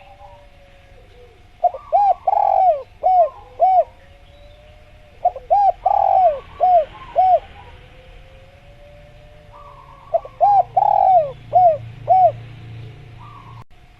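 Spotted dove cooing: three phrases of about five short, clipped coos each, repeated every four to five seconds.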